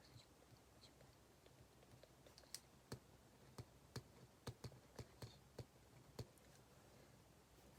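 Quiet room tone broken by a run of about a dozen light, irregular clicks and taps in the middle, the small sounds of someone working at a desk.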